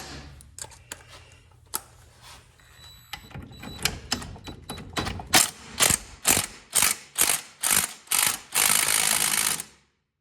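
Hand ratchet wrench clicking on a Lawn-Boy mower's blade bolt. Scattered clicks come first, then steady ratcheting strokes about twice a second from about halfway through. They end in a longer run of continuous clicking that stops suddenly.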